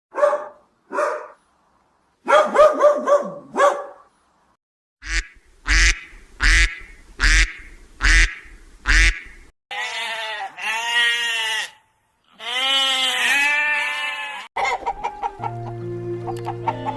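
A run of separate farm-animal calls: short honking calls in quick groups, then two long bleating calls. Music comes in near the end.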